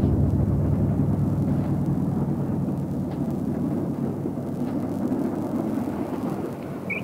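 A passenger train's carriages running along the rails and moving away, the running noise fading steadily.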